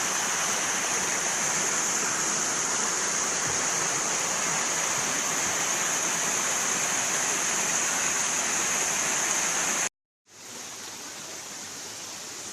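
Steady rushing of a river and waterfalls. It cuts out abruptly about ten seconds in, and a quieter steady rush resumes a moment later.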